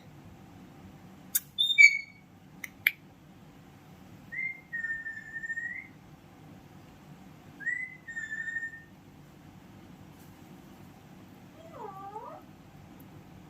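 Pet parrot vocalising: a few sharp clicks and short squawks near two seconds in. Then come two drawn-out whistles of about a second each, a few seconds apart, and a shorter, lower dipping call near the end.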